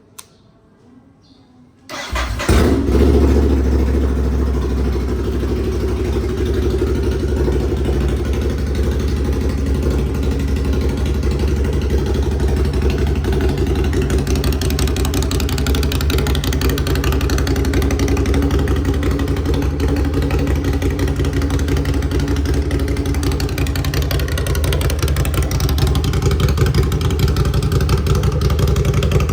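Ducati Scrambler's air-cooled L-twin breathing through a Zard aftermarket exhaust: a click, then about two seconds in the engine starts with a brief rise in revs and settles into a steady idle.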